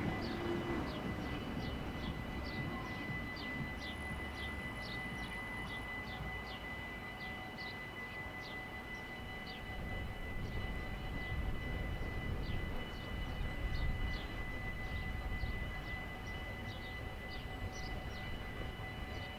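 Outdoor background: a low, steady rumble of distant traffic or aircraft, with short high chirps about twice a second and a faint steady high whine.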